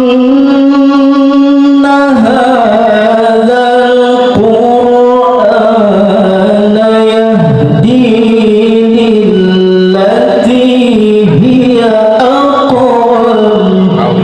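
A man reciting the Quran in a melodic, sung style: one voice holding a long note for the first two seconds, then a run of ornamented phrases whose pitch wavers and dips.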